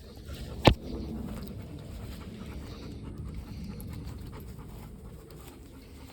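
A dog panting steadily, with one sharp click about a second in.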